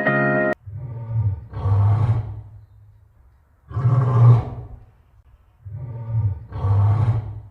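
Big cat roaring: a series of deep, loud roars, some in close pairs, with short pauses between them. Background music cuts off about half a second in, just before the roars.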